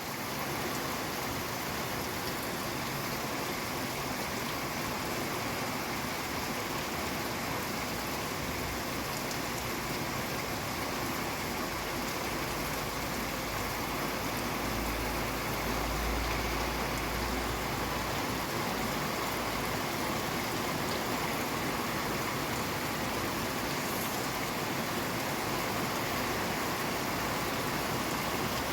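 Steady rain falling, an even hiss that fades in at the start. A low rumble swells briefly about halfway through.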